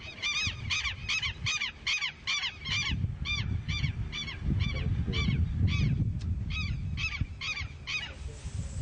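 A bird calling over and over with short, arched cries at about three a second, thinning out partway through. A low rumble runs under the calls in the middle, and a hiss comes in near the end.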